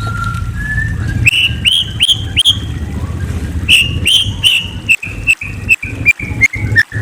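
A murai songbird singing: a short whistle, then two runs of four sharp rising chirps, then a quick string of clipped notes stepping down in pitch, over a steady low hum.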